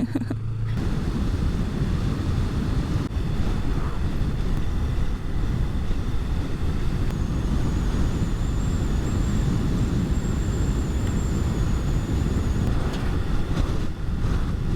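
Yamaha MT-03 motorcycle riding at road speed: a steady low rumble of engine and wind on the microphone, with a faint high whine through the middle.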